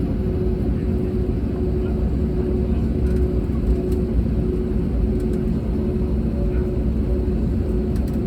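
Cabin noise of an Airbus A320neo on the ground before takeoff: a steady low rumble with a constant hum from the Pratt & Whitney geared turbofans at idle and the cabin air system.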